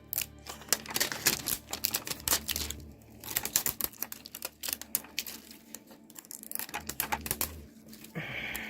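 Plastic packaging of a toy fridge being worked open by hand: a quick, irregular run of clicks and crinkles.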